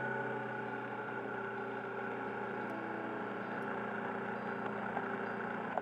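Kawasaki Versys motorcycle engine running at a steady, even speed.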